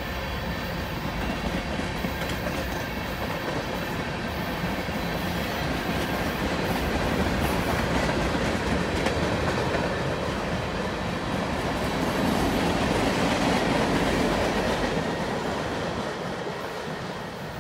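Freight cars, covered hoppers and tank cars, rolling past on the rails: a steady rumble of steel wheels on track. It fades near the end as the cars move away.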